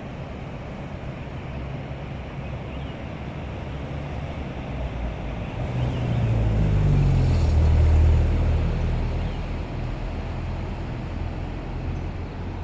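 Ban Gioc waterfall's steady rushing roar of falling water, with a low rumble that swells about halfway through and fades again.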